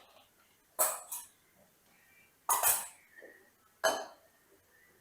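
Dishes and kitchen utensils being handled: four short knocks and clinks, the one near four seconds ringing briefly.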